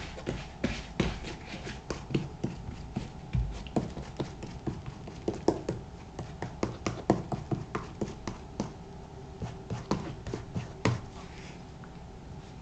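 Shoe cream being worked by hand into a black leather moc-toe boot: irregular small taps and rubbing strokes, which stop about eleven seconds in.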